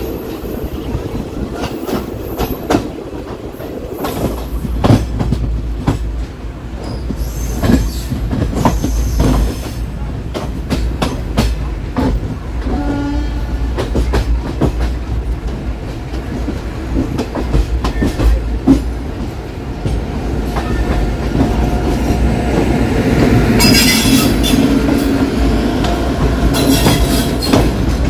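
ICF passenger coach running on the rails: a steady rumble with the clickety-clack of wheels over rail joints. A short horn blast sounds about halfway through.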